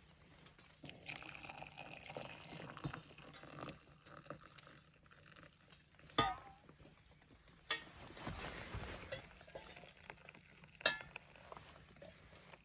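Metal spoon stirring and scraping in a camp pot, then three sharp metallic clinks. The loudest clink, about six seconds in, rings briefly.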